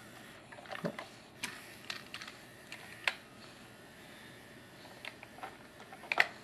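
Hard plastic toy trucks clicking and knocking together as they are handled: about a dozen irregular taps, the loudest about three seconds in and a quick double knock near the end.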